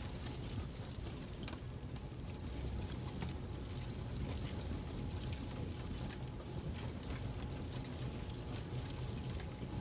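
Fireplace ambience: a crackling fire with a steady low rumble and many scattered, irregular sharp crackles.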